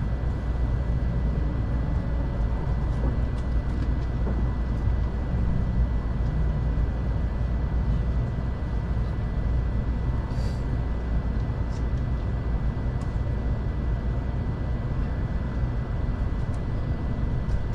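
Steady low rumble inside the passenger cabin of a Kamome Shinkansen train running along the line, with a faint steady high tone over it.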